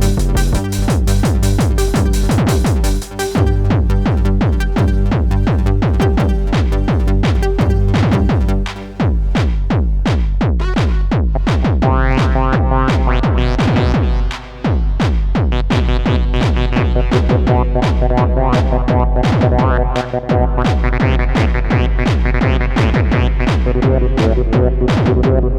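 Electronic techno-style music played live on hardware: a steady drum-machine kick and drums from a Yamaha RM1x sequencer and Akai MPC Live 2 under repeating synth bass and synth lines. The beat drops out briefly three times, about three, nine and fourteen seconds in.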